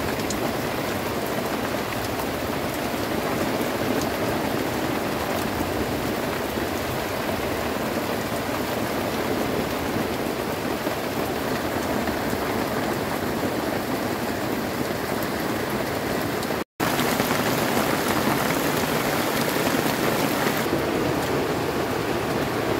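Heavy rain falling steadily on a tent, heard from inside it. The sound cuts out for an instant about two-thirds of the way through, then carries on slightly louder.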